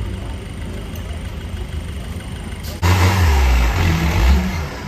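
Off-road 4x4 engine running with a steady low rumble. About three seconds in, a much louder engine cuts in, revving hard and unevenly under load.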